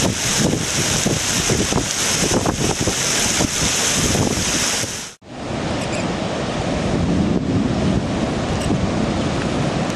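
Steady rushing noise of rain and floodwater, with wind buffeting the microphone. About five seconds in the sound cuts out abruptly, then returns deeper and more rumbling.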